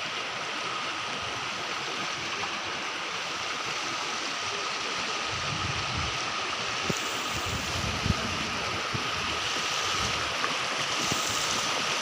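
A river's flowing water rushing steadily, with a low rumble for a few seconds near the middle.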